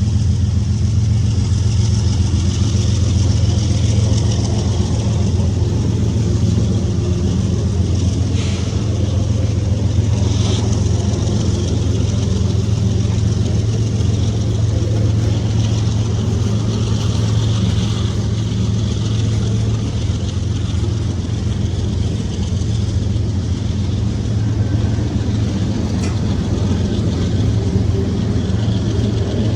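Diesel freight locomotives running with a steady low engine drone that holds its pitch.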